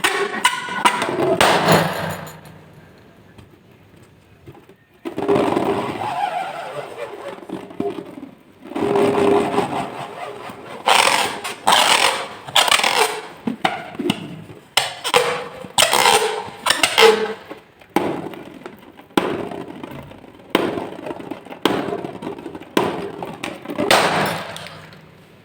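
Slime being pressed, squeezed and stirred by hand: a string of short, sharp, sticky sounds about once a second, after a quieter stretch a few seconds in.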